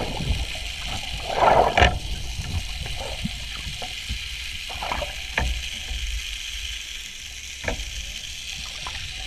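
Water sloshing and bubbling with scattered short knocks, and a louder splashy burst about one and a half seconds in, over a steady hiss.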